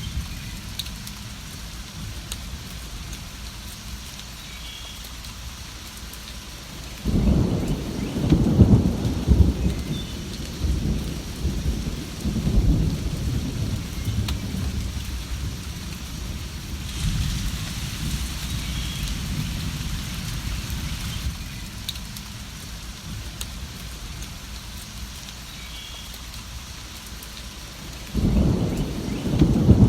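Steady rain with rolling thunder: a long low rumble of thunder starts about seven seconds in and fades over several seconds, and another begins near the end.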